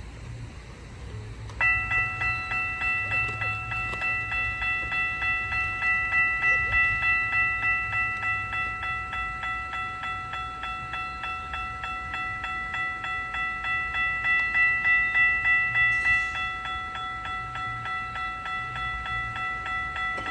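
Level-crossing warning bell starting to ring about a second and a half in, striking steadily about three times a second: the crossing signals have activated for an approaching train.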